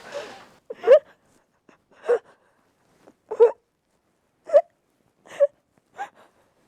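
A female voice sobbing in short, high-pitched, catching bursts about once a second, weakening toward the end.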